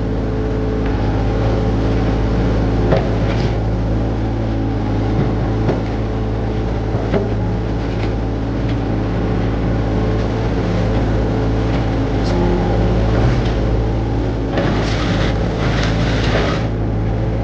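Hitachi 035 mini excavator's diesel engine running steadily, with scattered knocks and clanks of the machine at work and a few louder noisy bursts near the end.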